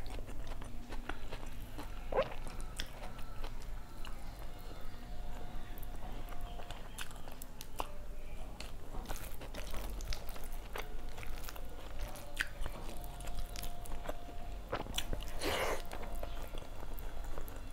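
Close-miked chewing and mouth sounds of a person eating rice and fried fish by hand: frequent small wet clicks and lip smacks, with one louder smack or slurp near the end.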